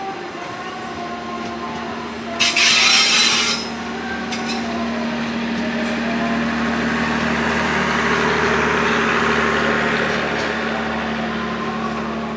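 The tail of a passenger train passing close, with wheels running on the rails. About two and a half seconds in there is a sudden loud rushing noise lasting about a second. Then a steady low hum and a rushing noise swell as the last car goes by, loudest near the end, and begin to ease.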